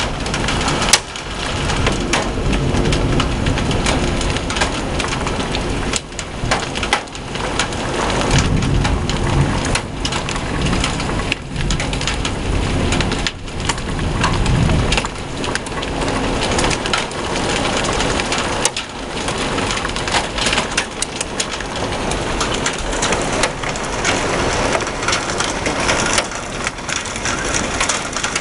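Heavy thunderstorm rain pelting down, a steady dense rush full of sharp ticks of drops striking hard surfaces, with low rumbling swells now and then.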